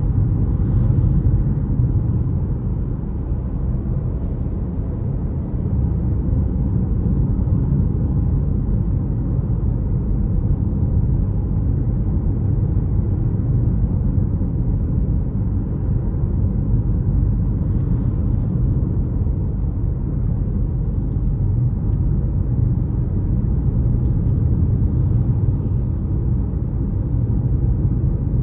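A car driving on a road: a steady low rumble of tyres and engine that holds even throughout.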